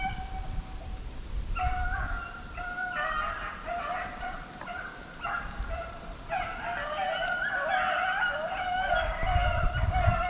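A pack of rabbit hounds baying on the trail of a running rabbit, several voices overlapping and growing fuller about halfway through.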